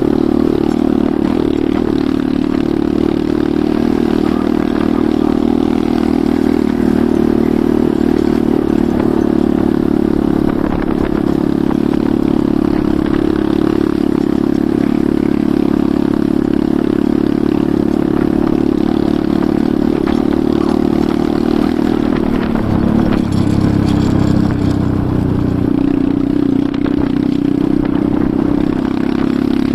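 Enduro motorcycle engine running steadily under way, its note shifting briefly about three-quarters of the way through.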